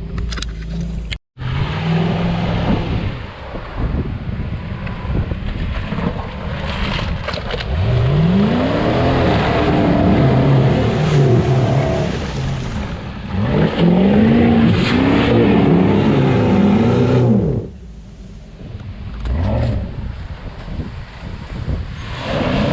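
UAZ off-road vehicle's engine revved up and back down several times in a row, its pitch rising and falling, before dropping back to a lower, quieter run near the end.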